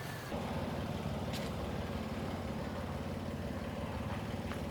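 Vehicle engine idling steadily, with an even low pulsing, coming in abruptly just after the start.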